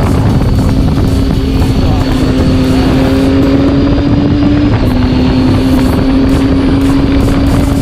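Triumph Tiger 800's three-cylinder engine and exhaust running at a steady riding speed, the engine note sagging slightly and stepping down a little about two-thirds of the way in.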